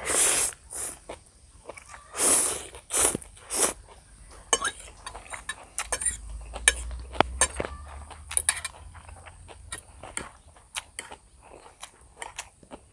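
A person eating instant noodles: several loud slurps in the first four seconds, then chewing with many sharp clicks of utensils against a bowl.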